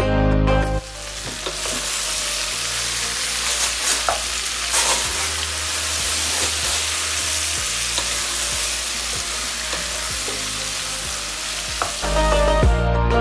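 Food sizzling in hot oil in a pan while being stirred, with a spoon scraping and tapping against the pan now and then. Background music cuts out about a second in and comes back near the end.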